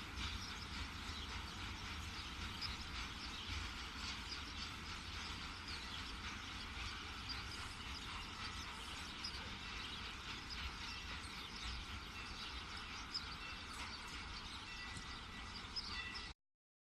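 Quiet outdoor background noise with a steady low rumble and faint bird chirps; it cuts off abruptly near the end.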